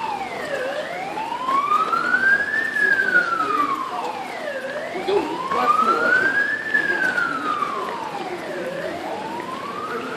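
Emergency vehicle siren in a slow wail, its pitch rising for about two seconds and falling for about two, over and over.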